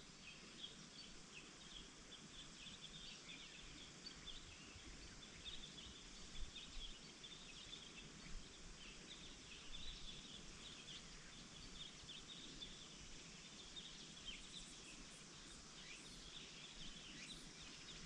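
Near silence: faint outdoor ambience with many small, high chirps scattered throughout.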